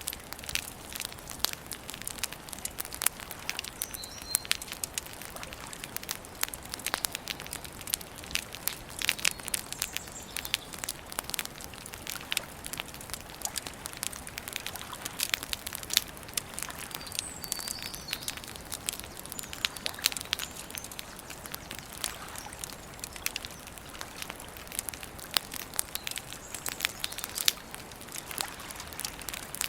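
Wood campfire crackling and popping, a dense irregular run of sharp snaps. A few faint bird chirps come through, about four seconds in and again past the middle.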